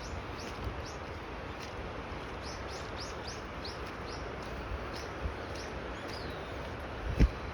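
A bird calling a run of short, high, falling chirps, about two or three a second, over a steady hiss. A single low thump comes near the end.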